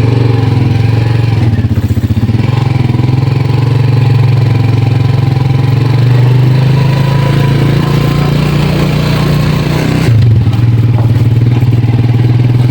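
Motorcycle engine running steadily while riding, with a brief change in engine note about ten seconds in.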